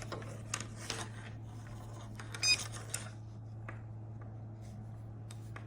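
Small electronic bark collar being handled and switched on: light plastic clicks and one short, high electronic beep about two and a half seconds in, over a steady low hum.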